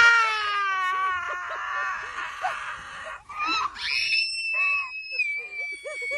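Two long, high-pitched screaming cries: the first falls slowly in pitch over about three seconds, and the second, about a second later, is held at a steady high pitch. Short squeaky calls come between and after them.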